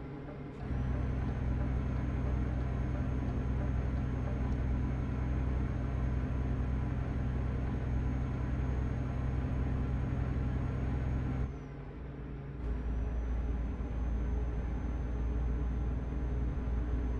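Truck engine running steadily, heard from inside the cab as a low drone with a faint high whine. The sound drops away briefly twice, just after the start and again about twelve seconds in, then picks up again.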